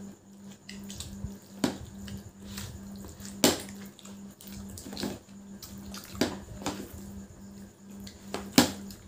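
Wet slurping and smacking mouth sounds of people eating spicy Maggi noodles straight off the plate without hands, in irregular sharp bursts, the loudest about three and a half seconds in and again near the end.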